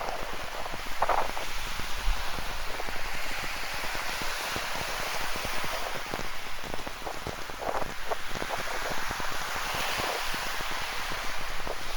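Steady rain falling, a dense hiss with many close individual drops pattering sharply through it.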